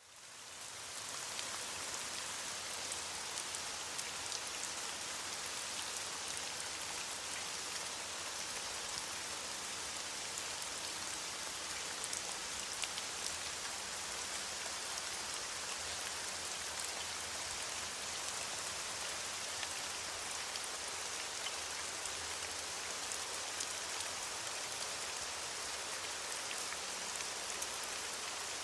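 Steady rain falling on leaves, an even hiss with scattered individual drop ticks, fading in over the first second.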